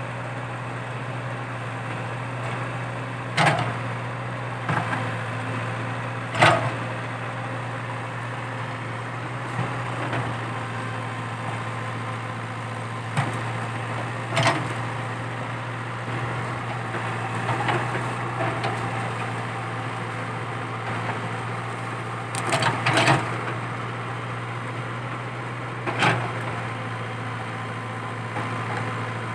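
Komatsu PC80 excavator's diesel engine running at a steady hum while it digs out eucalyptus stumps, with several sharp cracks and knocks at irregular intervals, loudest about a third of the way in and near three quarters through.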